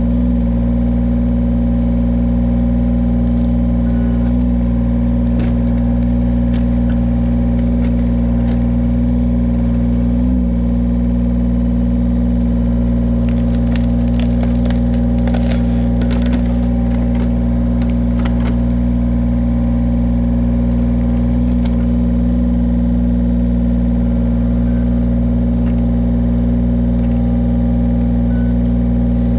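Engine of a small heavy machine running steadily under a hydraulic log cutter, with several seconds of wood cracking and crunching about halfway through as a log is split.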